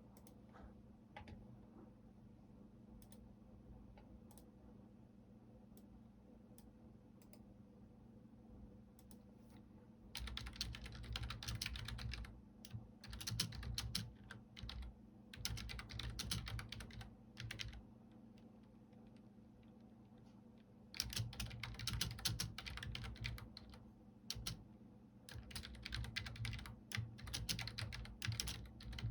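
Typing on a computer keyboard: a few scattered, faint key clicks for the first ten seconds or so, then two spells of fast, continuous typing with a pause of a few seconds between them. A faint steady low hum runs underneath.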